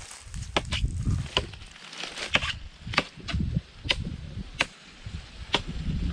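A blade chopping into wood with repeated sharp strikes, about a dozen at an uneven pace: notches being hacked into a coconut palm trunk to climb it.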